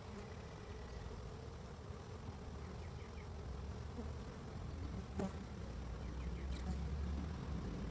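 Many honeybees flying at a busy hive entrance, a steady buzzing hum. A single click about five seconds in, and a low rumble builds toward the end.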